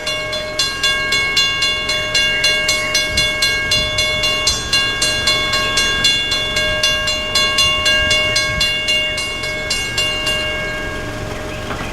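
Amtrak passenger train rolling past as it pulls out of the station, its wheels clicking over rail joints about three times a second. A steady high-pitched tone sounds over the clicking and stops near the end.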